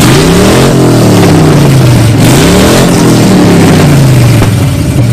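Car engine revved hard twice through a loud exhaust, each rev climbing quickly and falling back, then settling to idle for the last second or so.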